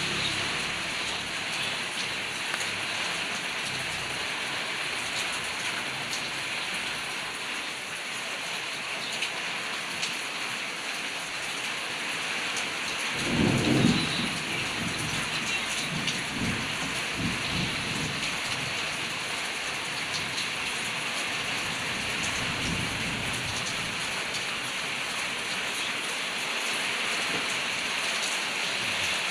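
Steady rain falling, with thunder rumbling about halfway through and weaker rumbles for several seconds after.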